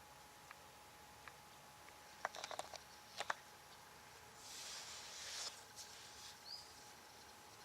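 Animal sounds: a quick run of sharp clicks a little over two seconds in and two more about a second later, then a hissing rustle lasting about a second, with a faint short high chirp near the end.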